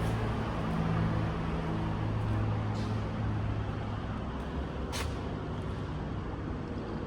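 A vehicle engine idling with a steady low hum. A short sharp click about five seconds in.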